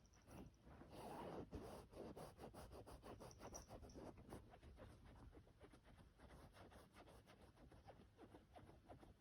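Faint rapid scratching and rustling on futon fabric during play with a cat, a quick run of short strokes, louder for the first few seconds.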